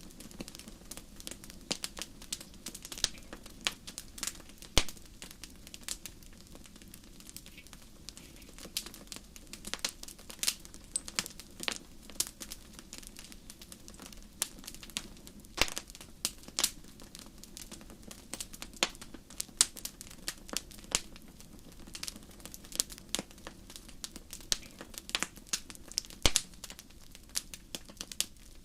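Wood fire burning in a fireplace: irregular crackling and popping over a low steady hiss, with a few sharper, louder pops.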